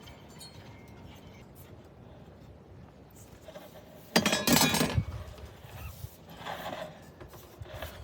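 A loud clinking clatter of hard parts being handled, lasting just under a second about four seconds in, with a couple of fainter knocks near the end.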